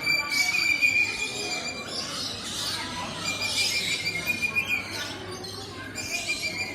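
A chorus of birds chirping and squeaking, with a thin, steady high tone that drops out twice and comes back.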